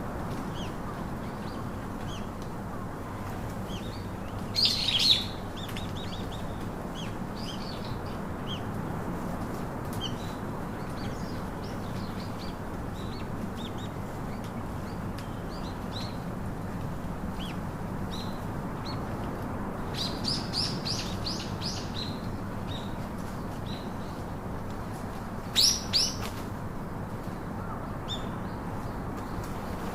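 Several songbirds chirping and calling over a steady background hiss. There are frequent short chirps, a loud call about five seconds in, a quick run of notes about two-thirds of the way through, and the loudest call near the end.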